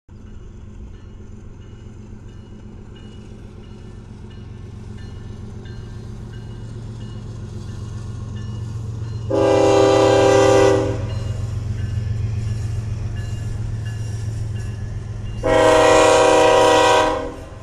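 Diesel freight locomotives of a BNSF oil train approaching, their low engine rumble growing louder, with two long air horn blasts sounding a multi-note chord, about nine seconds in and again near the end.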